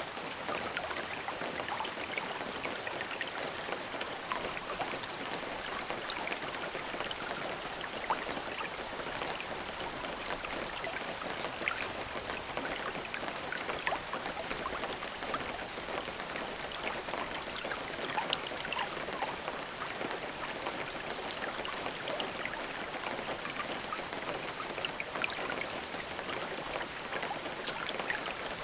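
Steady rain falling, a dense even hiss with individual drops ticking on a surface. No thunder.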